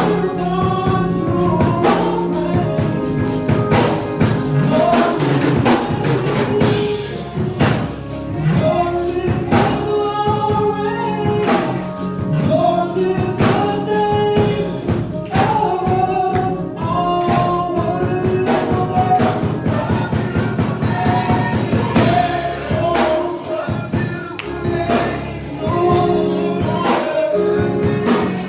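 Gospel song: singing over a live band, with drums keeping a steady beat.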